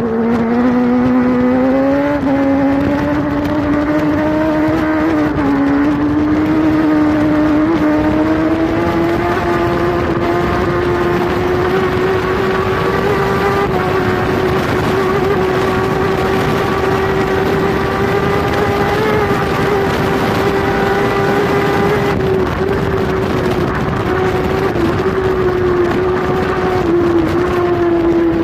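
Kawasaki superbike's inline-four engine at racing speed, heard from a camera mounted on the bike with wind rush over it. The engine note climbs steadily through the first ten seconds or so, then holds at high revs with a few brief dips, and eases off near the end.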